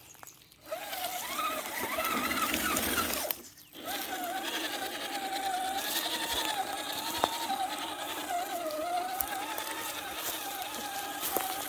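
Radio-controlled car's electric motor whining, its pitch wavering up and down with the throttle. It starts under a second in, cuts out briefly about three and a half seconds in, then runs on.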